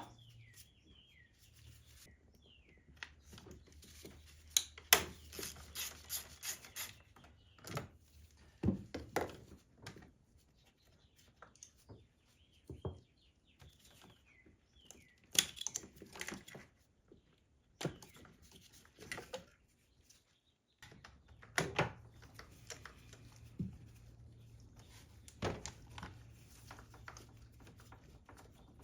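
Scattered clicks, clinks and knocks of hand work on the car, with no engine running. Birds chirp now and then, mostly near the start and again about halfway through.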